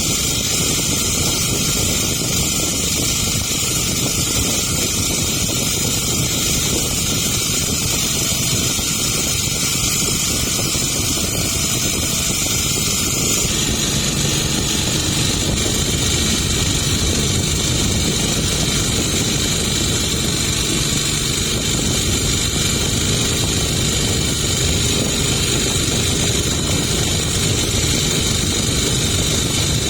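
Motorboat engine running steadily under way, with rushing wind and water noise.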